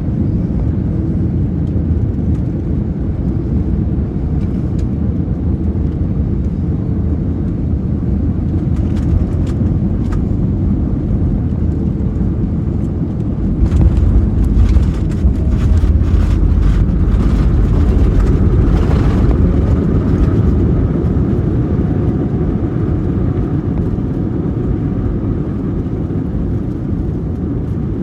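Cabin noise of a United Airbus A321neo: a steady low rumble that, about halfway through, jumps louder and deeper with several seconds of rattling, as on touchdown and rollout on the runway. It then eases back to a steadier rumble.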